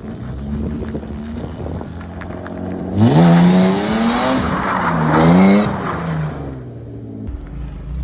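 A Nissan 350Z's 3.5-litre V6 revving hard twice in quick succession, with tyres screeching, then the revs dropping back. Before that the engine runs at lower revs.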